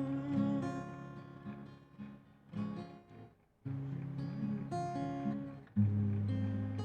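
Acoustic guitar playing an instrumental break, strummed chords that ring out and fade. There is a brief near-silent gap about halfway through, then new chords strike twice.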